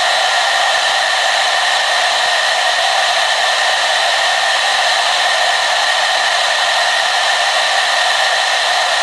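Hair dryer running steadily, a constant airy rush with a steady whine on top and no change in speed.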